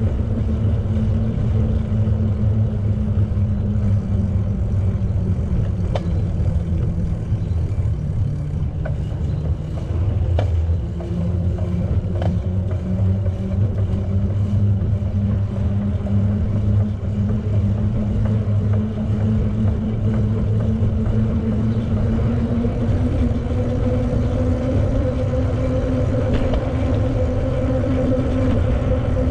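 Steady rumble of a bicycle rolling on pavement, heard from a camera riding with it: tyre and wind noise with a low hum that drifts slowly in pitch, and a few sharp clicks from bumps or the drivetrain in the first half.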